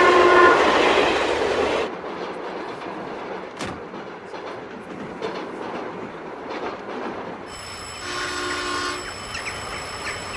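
A train running, with a horn sounding near the start; the sound cuts off abruptly before two seconds and gives way to quieter rail noise, with a short horn-like tone about eight seconds in.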